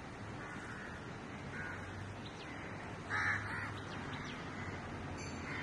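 Bird calls over steady outdoor background noise, with one loud harsh call about three seconds in and fainter calls before and near the end.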